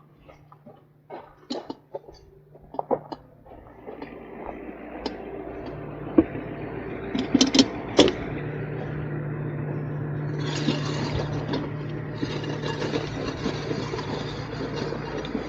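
Tow truck's engine and hydraulic lift running: a few scattered clicks and knocks, then a steady mechanical running noise that builds about four seconds in. A steady low hum joins about halfway, and a hiss comes in a little later.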